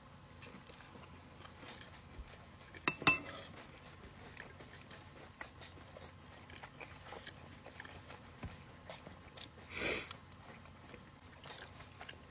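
Close-up eating sounds: faint chewing and biting of homemade bread. There are two sharp clicks about three seconds in and a short noisy burst near the ten-second mark.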